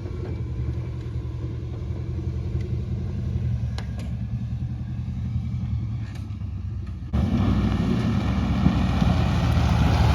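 The 1996 GMC K1500's 5.0-liter Vortec V8 running through its custom exhaust with a steady low rumble. About seven seconds in, the sound suddenly gets louder and becomes a rushing noise over the engine.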